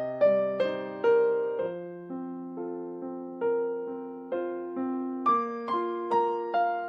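Background music: a slow electric piano melody with a bass line, single notes struck and left to fade.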